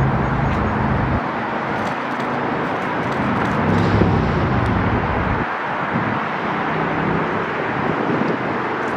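Aircraft in flight at an airshow: a steady rushing engine noise, with a low hum under it that fades about a second in, comes back, and drops away again past the five-second mark.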